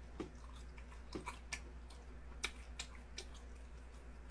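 A person chewing a mouthful of mala xiangguo, with soft, irregular smacks and clicks about twice a second.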